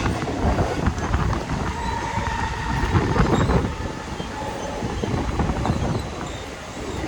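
Mumbai suburban local train running on the track: a steady heavy rumble with scattered clicks of wheels over rail joints. A faint thin whine comes in for a second or so about two seconds in.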